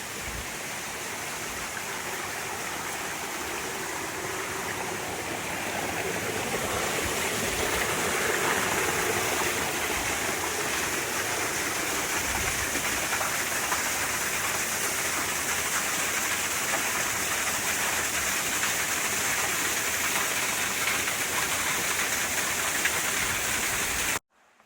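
Waterfall: a steady rush of falling and splashing water, growing louder about six seconds in, then cut off suddenly near the end.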